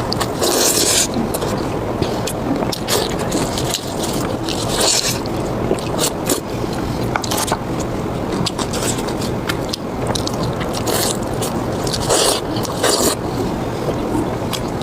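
Close-miked eating of spicy pork belly: chewing with frequent sharp clicks and three short bursts of hiss.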